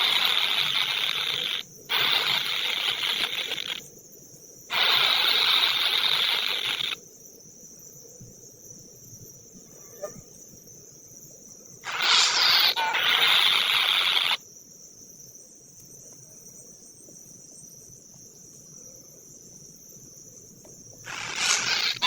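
Insects buzzing in loud bursts of a second or two that start and stop abruptly, over a steady high-pitched insect drone.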